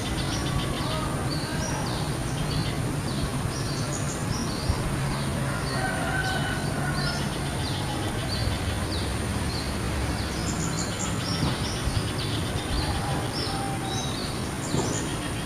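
Spiderhunter giving a long run of short, sharp, high chirps, a few a second, over a steady low rumble of background noise.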